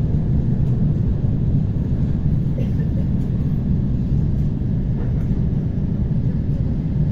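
Steady low rumble of an ER9T electric multiple unit running along the line, with wheel and track noise heard from inside the passenger car.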